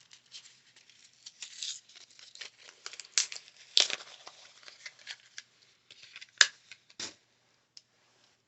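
Retail packaging being torn open and handled: irregular crinkling, tearing and sharp snaps, the loudest about 4 seconds in and again about 6.5 seconds in.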